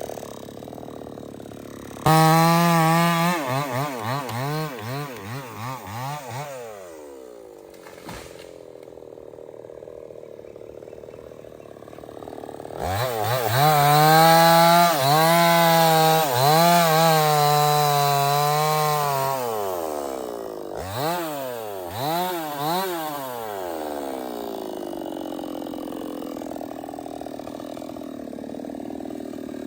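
Stihl 070 two-stroke chainsaw engine, revved in repeated bursts that rise and fall in pitch. It drops to a lower steady run between the bursts, with a longer high-revving stretch in the middle and a steady low run near the end.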